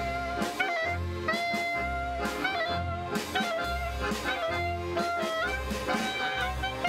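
A live klezmer-style band playing a Hasidic nigun: a held, bending lead melody over a steady, bouncing bass line.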